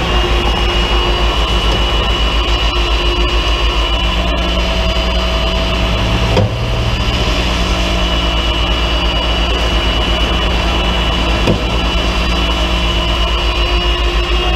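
Vehicle engine running steadily, with an even low pulse.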